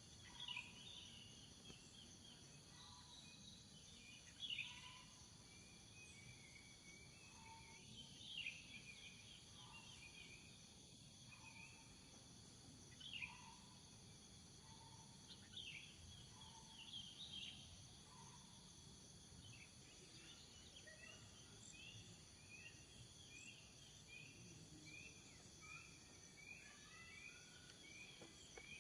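Faint pine-forest ambience: birds giving scattered short chirps and sweeping calls, turning into an even run of quick repeated notes, two or three a second, over the last third. A steady high insect drone runs underneath.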